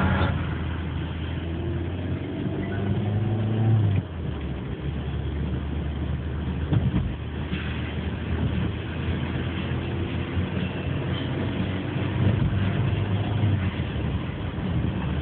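Car engine heard from inside the cabin, its pitch climbing as it revs up under acceleration, then dropping abruptly about four seconds in. It climbs again later and drops once more near the end.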